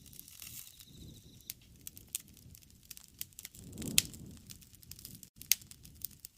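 Wood bonfire burning, with a low rustle of flames and irregular sharp crackles and pops from the burning wood. The loudest pop comes about four seconds in, and another follows about a second and a half later.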